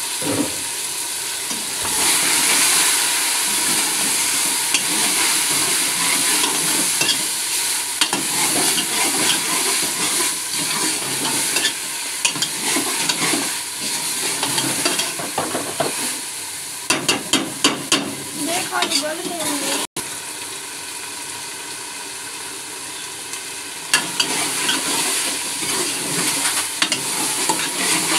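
Fenugreek leaves, peas and potatoes sizzling in oil in a metal pot, with a spatula stirring and scraping against the pot bottom in scattered sharp clicks. The sound cuts out for an instant about two-thirds of the way through.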